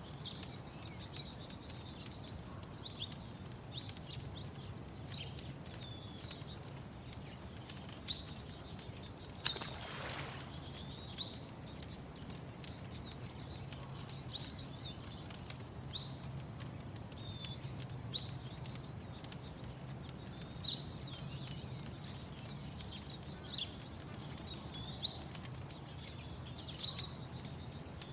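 Small birds chirping in short, high calls every second or so, over faint sharp crackles from a wood fire and a low steady hum. About ten seconds in, a brief rush of noise lasts about a second.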